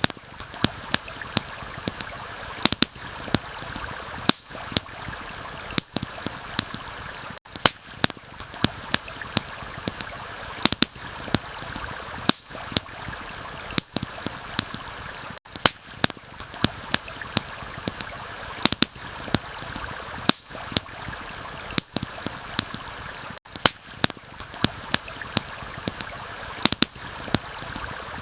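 Campfire crackling with frequent sharp, irregular pops and snaps over the steady rush of a stream.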